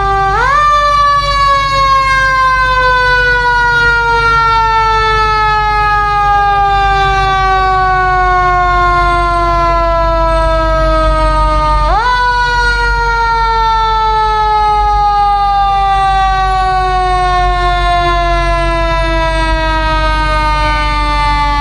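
Emergency vehicle siren that winds up quickly and then slides slowly down in pitch, twice, about twelve seconds apart, over a steady low rumble.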